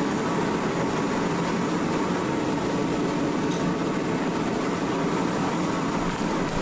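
Mr. Heater 60,000 BTU forced-air propane heater running with a steady rushing noise.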